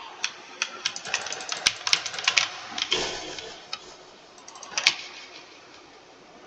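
Typing on a computer keyboard: a quick run of key clicks for about three seconds, a short pause, then a few more keystrokes ending in one louder clack about five seconds in.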